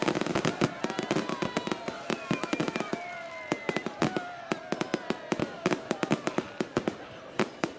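Fireworks going off: a dense, rapid crackle of sharp pops, many a second, with a few faint gliding tones behind them.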